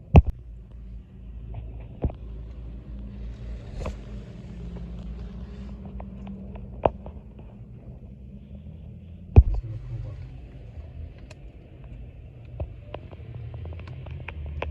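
Steady low rumble of road traffic, broken by a few sharp knocks, the loudest just after the start and about nine seconds in.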